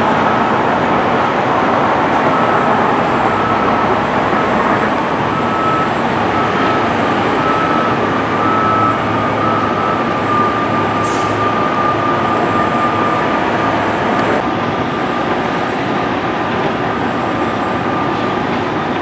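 Steady running noise of a moving train, with a faint steady whine.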